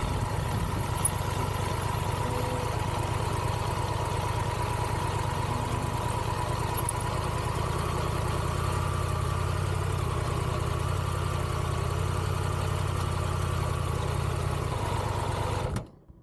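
Triumph Tiger 1200 GT Pro's three-cylinder engine idling steadily after parking, then switched off near the end, the sound cutting off suddenly.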